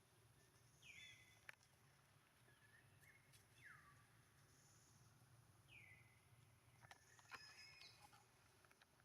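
Three faint, short, high-pitched animal calls, each falling in pitch, with a few soft clicks in between.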